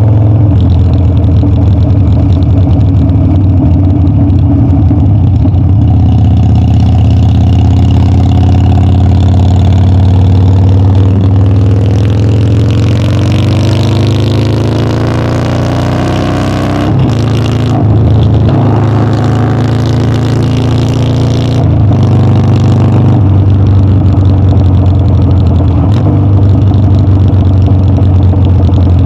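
Harley-Davidson Dyna's V-twin engine running on a ride. Its pitch climbs steadily through the middle, is cut by two brief dips about two-thirds of the way in, then settles back to a steady note.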